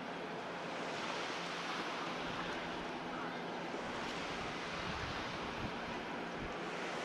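Steady rushing of wind and water, with wind buffeting the microphone from about two seconds in.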